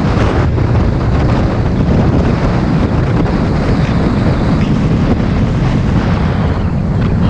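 A moving bus: steady engine and road noise with heavy wind buffeting on the microphone.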